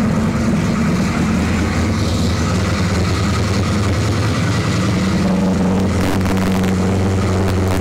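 Engine of a flat-tray one-tonner ute running steadily at low revs as it drives slowly past, an even low rumble.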